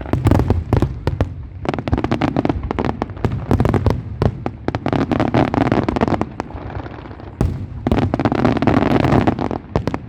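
Fireworks going off: a rapid run of sharp bangs and pops, with dense stretches of crackling around the middle and again near the end.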